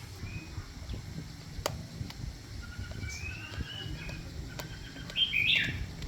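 Chickens calling: faint short calls, then a louder squawk about five seconds in. Two sharp clicks, one at about a second and a half and one at about four and a half seconds.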